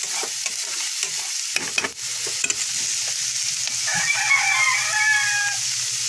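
Ground pork sizzling in hot oil in a frying pan as a spatula stirs and scrapes it. About four seconds in, a rooster crows for a second or two in the background.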